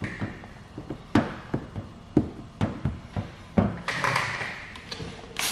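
Irregular sharp taps and clicks from tools being handled, about a dozen in a few seconds, with a short hiss about four seconds in.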